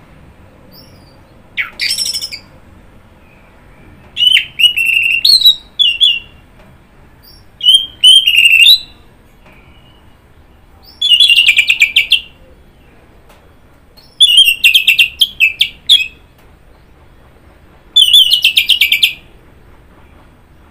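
Orange-headed thrush (anis merah) singing: about six varied phrases of quick rattling notes and sweeping whistles, each up to a couple of seconds long, with short pauses between them.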